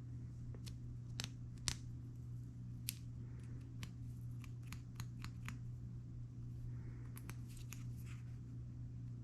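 Acrylic beads and a bead file being handled, giving scattered sharp clicks and taps, about a dozen, with a couple of brief faint scrapes from filing the bead's hole. A steady low hum runs underneath.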